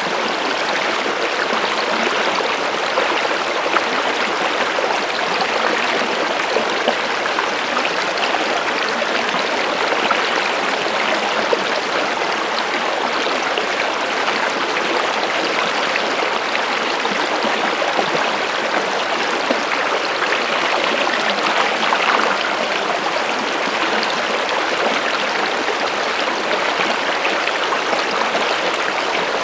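Running water from a stream, a steady rush of flowing and splashing water with small trickles and gurgles.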